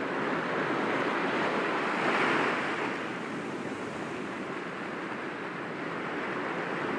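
Sea waves breaking gently against rocks, a steady wash of surf that swells about two seconds in and then eases off.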